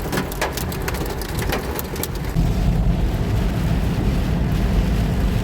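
Hailstones striking a car amid heavy rain: a dense clatter of sharp knocks over a hiss. The knocks stop about two seconds in, leaving a steady low rumble.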